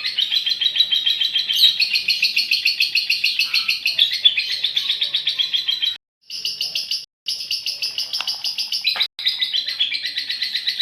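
Female lovebird singing its long chattering song (ngekek), a fast unbroken run of high chirps. The song drops out briefly two or three times past the middle.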